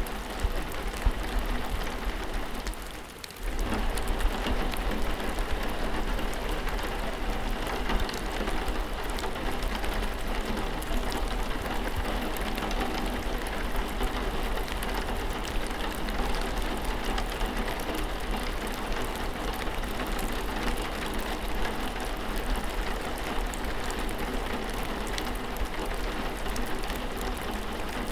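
Steady rainfall with many small drop ticks. The sound briefly drops away about three seconds in, then comes back at the same level.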